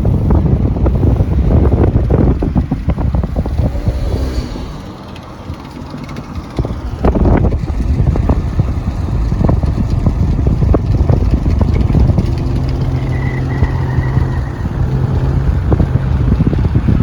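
A car driving, its engine and road noise a loud, steady rumble that eases briefly about five seconds in, with a steady low engine drone in the later part.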